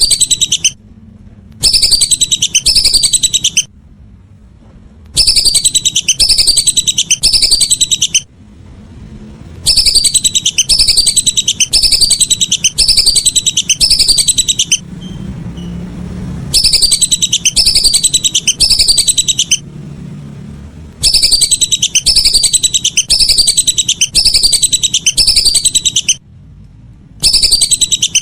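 Lesser whistling ducks (belibis) calling: loud groups of rapid, repeated falling whistles, each group lasting a few seconds with short pauses between. It is a recorded lure call of the kind played to draw whistling ducks in.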